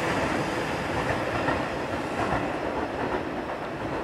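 Seibu 30000-series electric train running past, its wheels clicking over the rail joints. The sound fades slowly as the rear of the train draws away.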